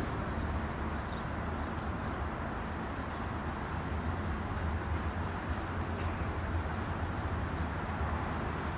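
Strong gusting wind buffeting the microphone: a steady low rumble over a city background hiss.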